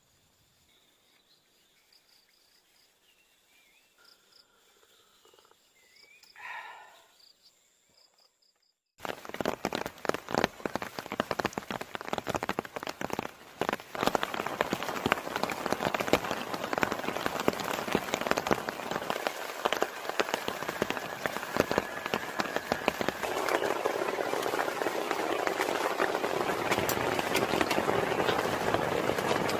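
Faint, quiet forest ambience with a brief call about six seconds in, then heavy rain starts abruptly about nine seconds in: a dense, loud patter of drops that grows heavier and steadier.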